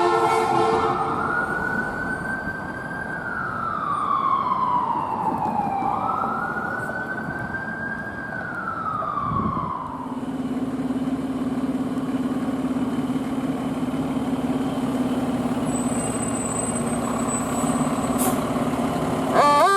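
Fire truck siren on a slow wail, rising and falling about every five seconds over truck and road noise, with a truck air horn blast ending just at the start. About halfway through the wail stops, leaving a steady low drone, and the air horn sounds again right at the end.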